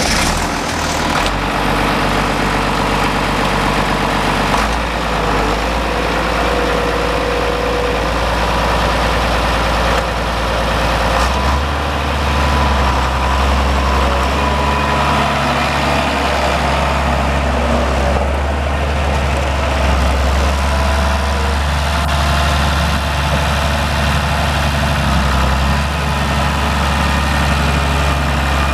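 1967 International Harvester 856D tractor's six-cylinder diesel engine running at a steady idle. Its speed changes about four seconds in and rises again about eleven seconds in, then holds steady.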